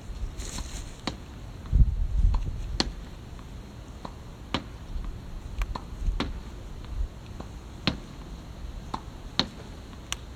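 Badminton racket strings striking shuttlecocks: about a dozen sharp cracks at uneven intervals, some louder than others, with a heavy low thump about two seconds in.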